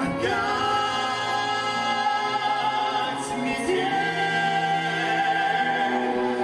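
A vocal duet sings with long held notes that shift pitch every second or two.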